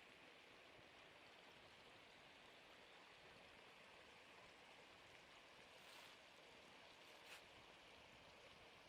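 Near silence: a faint steady hiss, with two brief soft rustles, one about six seconds in and one about seven seconds in.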